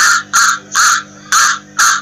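Mallard duck quacking: five short, harsh quacks, about two a second, all at an even loudness.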